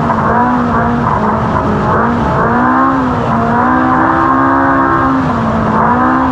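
Ultra4 race car's engine running hard, its pitch rising and falling again and again with the throttle over rough desert terrain.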